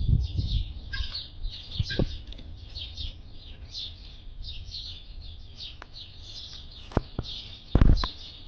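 A dense chorus of many small birds chirping continuously in an aviary, short quick calls overlapping one another. A few sharp knocks cut through, the loudest near the end.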